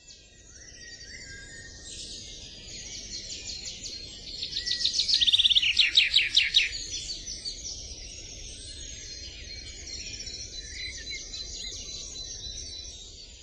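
Several small songbirds chirping and singing, with a loud, fast series of repeated trilled notes near the middle.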